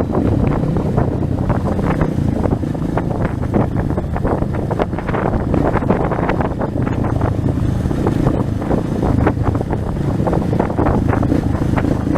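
Trail motorcycle engine running steadily while riding, with wind buffeting the microphone.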